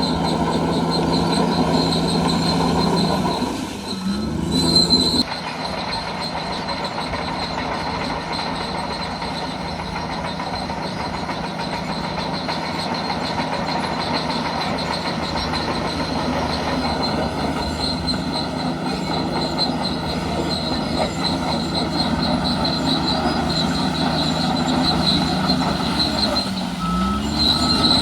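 Bulldozer working, its diesel engine running under a continuous high squeal and clatter from its steel tracks. The engine note dips and rises again twice, once a few seconds in and once near the end, and the sound changes abruptly just after five seconds.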